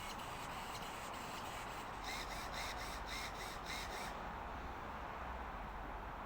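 A bird gives a quick series of about six short, harsh calls about two seconds in, over a faint steady hiss.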